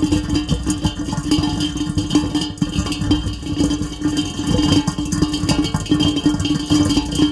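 Dense, steady patter of heavy rain, many close drops striking a surface, with a steady low hum underneath.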